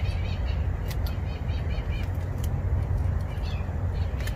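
Small birds chirping on and off, over a steady low rumble.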